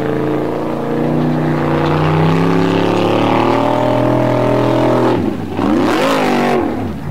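Formula off-road buggy's engine run hard at high revs under load as it climbs a steep gravel slope. The revs drop and swing back up about five seconds in, and again near the end.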